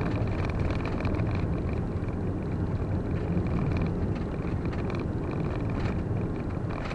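Steady low rumble of a vehicle on the move, engine and road noise without change.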